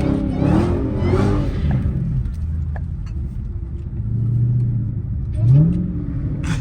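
Hellcat's supercharged 6.2-litre V8 running while driving, its pitch rising and falling under the throttle, then a quick rev that rises about five and a half seconds in.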